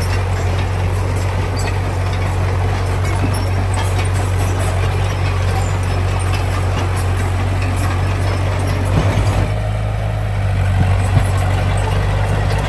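Heavy diesel construction machine engine running steadily with a deep drone, with scattered knocks and rattles; the sound thins briefly about nine seconds in.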